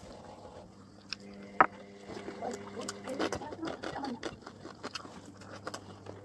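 Eating sounds over a steady low electrical hum: one sharp clink about a second and a half in, then scattered small clicks and scrapes.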